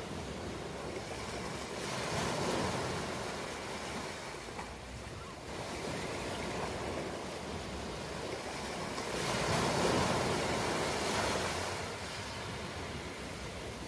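Ocean surf: a steady wash of waves that swells twice, loudest about ten seconds in.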